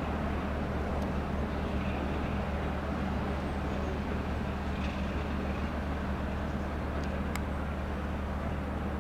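Class 33 diesel locomotive's Sulzer eight-cylinder engine idling with a steady low hum, with a few faint clicks.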